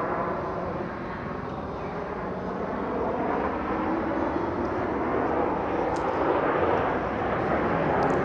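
Formation of Aermacchi MB-339A jet trainers flying past, their turbojet engines making a broad rushing jet noise that grows louder after the first couple of seconds.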